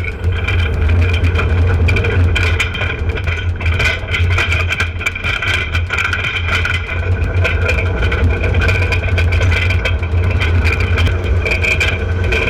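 A motor vehicle's engine running steadily, with many short knocks and rattles over it.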